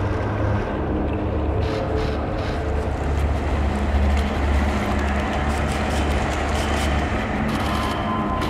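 Dark ambient electronic music: a low, sustained synthesizer drone under a noisy, hissing texture with scattered crackles.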